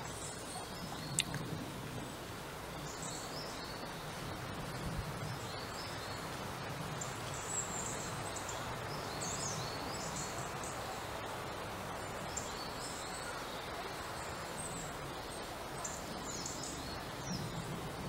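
Small woodland birds calling: many short, high chirps scattered throughout, over a steady outdoor background noise.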